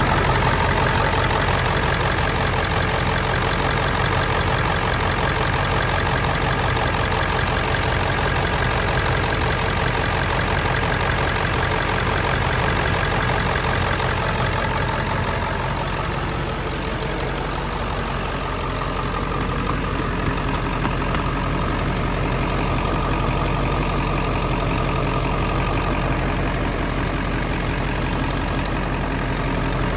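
Ford F-350 diesel engine idling steadily.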